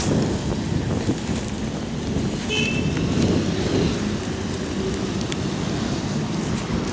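Blizzard wind gusting and buffeting the microphone, mixed with the noise of road traffic; a brief high squeak about two and a half seconds in.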